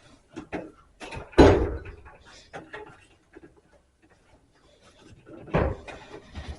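Dryer drum and front panel being worked back into the dryer cabinet: scattered knocks and scrapes, with two heavy clunks, one about a second and a half in and another near the end.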